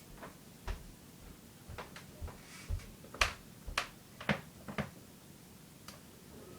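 A string of light knocks and clicks at irregular spacing, about ten in all, the loudest a little past the middle.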